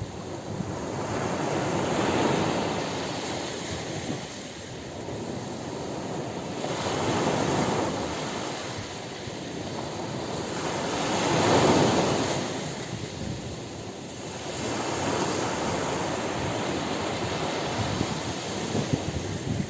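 Ocean surf breaking on a beach: long rushes of wave noise that swell and fall back about every five seconds, the loudest about twelve seconds in, then a more even wash toward the end.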